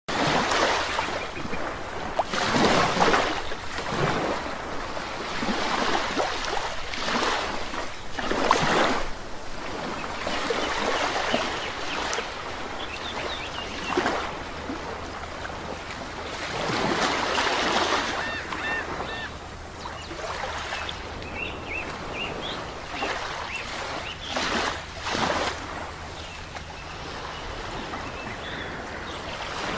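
Sea waves breaking on a shore, the wash swelling and falling in surges every few seconds. Birds give short calls over the surf in the middle part.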